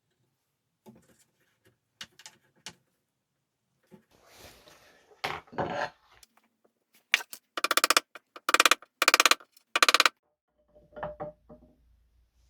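A few light clicks and knocks, then about five short, loud rasping strokes in quick succession, the kind of scraping or rubbing made by hand work on wood.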